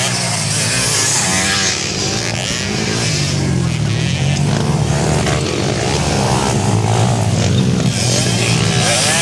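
Several motocross bikes' engines running loud on the track, their pitch rising and falling as the riders open and close the throttle.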